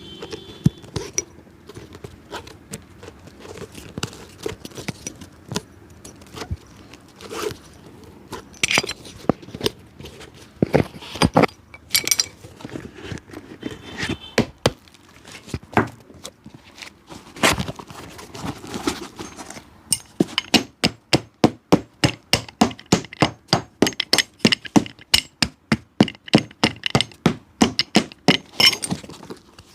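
Cobbler working on a shoe sole with hand tools: scattered knocks and scrapes, then, about two-thirds of the way in, a fast steady run of hammer taps, about three or four a second.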